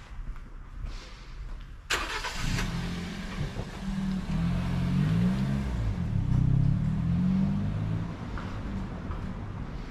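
A car engine close by: a sudden burst of noise about two seconds in, then a low, uneven engine hum that swells and eases off again.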